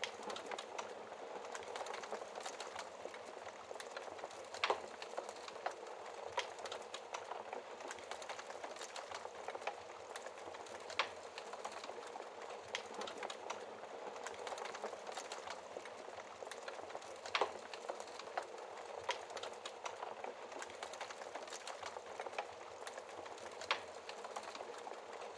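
Wood fire crackling steadily, with many small ticks and a sharper pop every few seconds.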